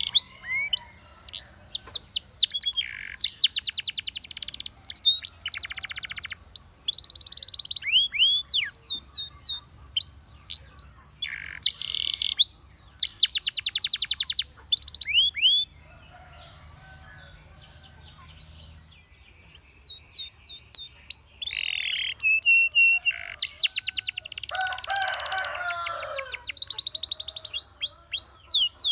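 Domestic canary singing: fast, high trills and rolls of rapidly repeated notes, with runs of rising and falling chirps. The song breaks off for a few seconds about halfway through and then resumes.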